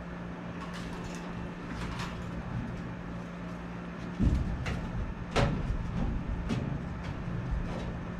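Scattered clicks and knocks of hand tools working on a copper refrigerant liquid line in a tight space, two of them louder about halfway through, over a steady low hum.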